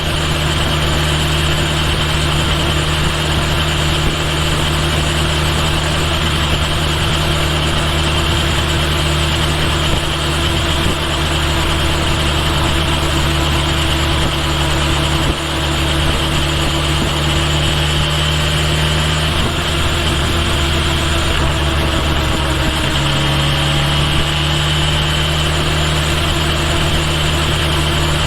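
Kawasaki Ninja H2 SX's supercharged inline-four running at a steady pace on the road, with wind and road noise. The engine note shifts slightly about two-thirds of the way in.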